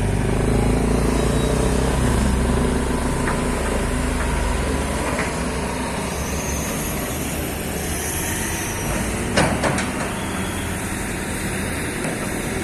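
Excavator diesel engine running steadily with a low rumble that eases after the first few seconds, and a brief cluster of sharp knocks about three quarters of the way through.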